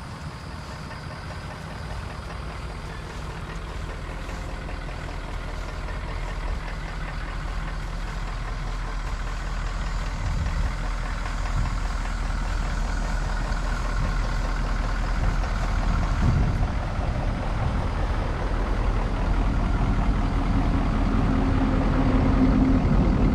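Ford F-350 Super Duty truck engine idling steadily, growing gradually louder, with a steady higher tone joining in near the end.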